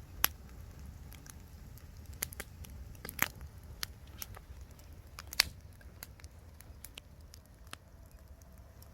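Campfire burning with irregular sharp pops and snaps, the loudest about a quarter second in and another near five and a half seconds in, over a low steady rumble. The pops come from burning wood and bamboo, whose nodes crack in the flames.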